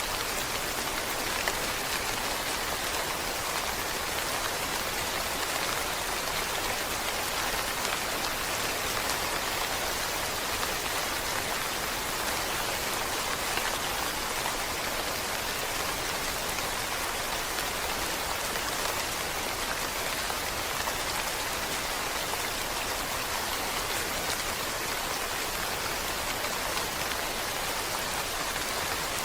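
Steady rain falling, an even hiss of many drops with no change in strength, one drop landing a little louder about a second and a half in.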